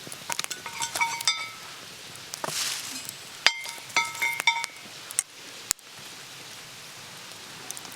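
Small metal items clinking and tapping together in a few quick bursts, each hit leaving a short bright ring, over a faint steady hiss.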